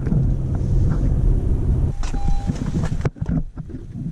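Car running on the road, heard from inside: a steady low rumble of engine and tyres that changes about two seconds in and drops off sharply about three seconds in, as if the car eases off.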